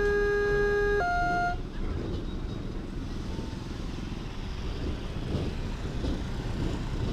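Railway level crossing's electronic warning siren, a two-tone alternating high-low alarm, cuts off about a second and a half in. After it, the sound of road traffic going over the crossing.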